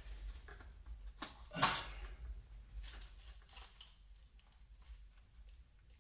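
Scattered plastic clicks and scrapes of a fuel injector wiring connector being worked loose by hand, with one sharp click about a second and a half in.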